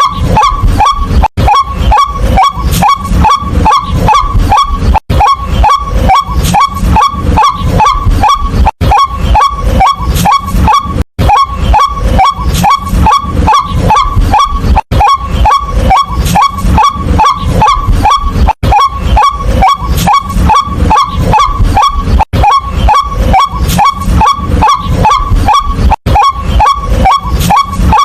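White-breasted waterhen calling: a loud, fast series of short, slightly falling 'kwak' notes, several a second, broken by brief gaps every few seconds.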